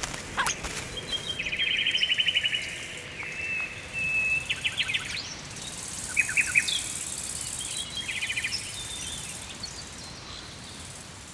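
Small birds calling in the wild: several short rapid trills and chirps a second or two apart, over a steady outdoor hiss.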